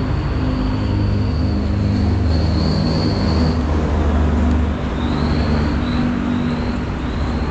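Car engine running close by, a steady low hum with a thin high whine above it.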